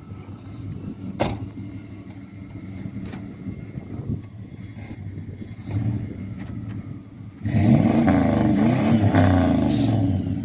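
Pickup truck engine running slowly, with a single knock about a second in; near the end it grows much louder for about two and a half seconds, then drops back.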